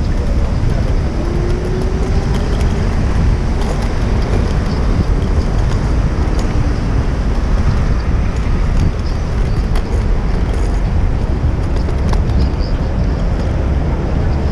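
Steady city street traffic heard from a moving bicycle, with a constant low wind rumble on the GoPro's microphone.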